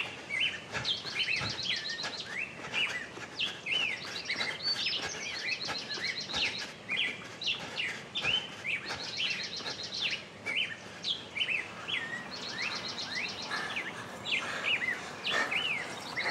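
Birds singing in a chorus: many short chirps and whistled notes overlapping, with a fast, high trill recurring every few seconds.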